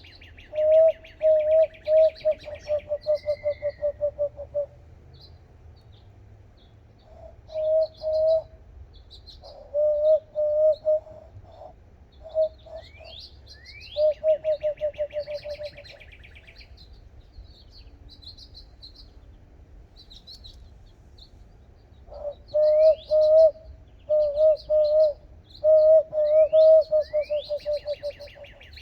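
Bird-call practice by hand-whistling through cupped hands: loud phrases of rapid repeated whistled notes on one low pitch, with pauses between phrases. Fainter high chirps and rising calls sound above them.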